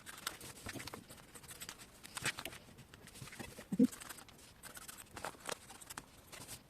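Scissors snipping through layers of fabric close to a sewn seam: a run of irregular crisp snips and cloth rustles as the excess is trimmed away. A brief low pitched sound stands out about four seconds in.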